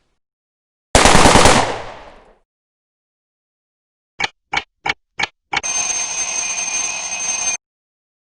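Sound effects. First a single loud blast that dies away over about a second and a half. After a pause come five sharp clicks in quick succession, then a steady hiss with a high thin ringing tone that runs for about two seconds and stops abruptly.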